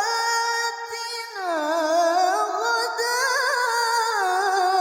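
A woman chanting the Qur'an in melodic tilawah style, drawing the word "ātinā" out over several seconds. A long held note slides to a new pitch about a second and a half in, then turns into a wavering, ornamented melisma.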